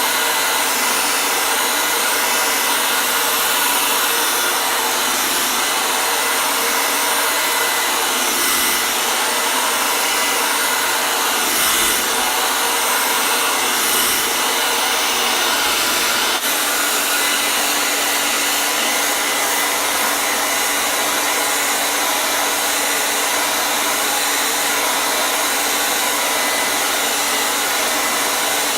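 Hair dryer blowing continuously, a steady even rush of air with a faint motor hum.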